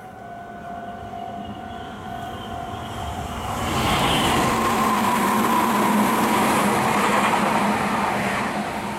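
Red Meitetsu electric train running past close by on the far track, its wheels and motors building to a loud rush from about three and a half seconds in and easing off near the end. Under it a level crossing alarm keeps up its steady electronic ringing.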